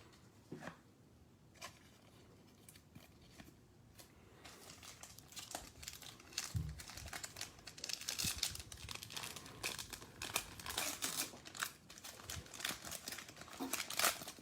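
Crinkling and tearing of a foil trading-card pack wrapper being ripped open and handled. It starts softly with a few clicks and grows into steady crackling from about five seconds in, with one dull thump about halfway.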